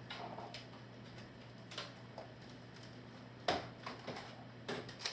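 Toy dart guns firing and darts striking targets: a series of short sharp clicks and knocks, about half a dozen, the loudest about three and a half seconds in.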